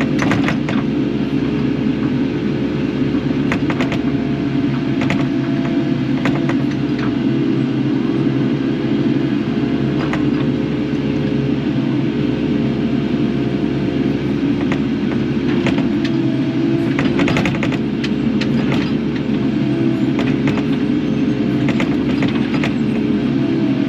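Kubota KX080 excavator's diesel engine running steadily under working load, its pitch shifting slightly as the hydraulics are worked. Short metallic clanks come now and then, a cluster of them about two-thirds of the way through.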